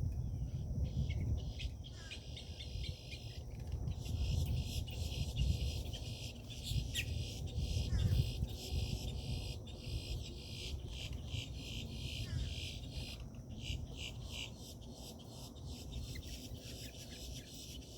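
Outdoor bird-feeder ambience: birds chirping with a few short falling calls, over a dense high insect trill, with a low rumble underneath.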